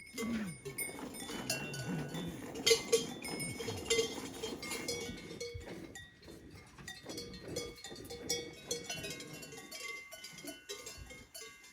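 Bells on livestock clanking and tinkling irregularly, several at once, with the loudest clanks about three and four seconds in.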